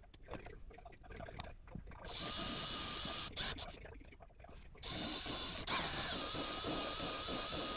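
A small power tool motor running with a steady whine. It starts about two seconds in, stops for a moment, then starts again and runs on, its pitch dropping slightly a little after it restarts.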